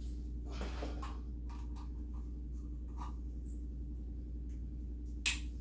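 Light scrapes, taps and clicks of shower head parts being handled, with a sharp click near the end, over a steady low hum.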